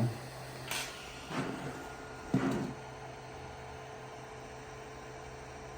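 3D printer humming steadily while its heated bed warms up. Three brief clicks and knocks come in the first three seconds.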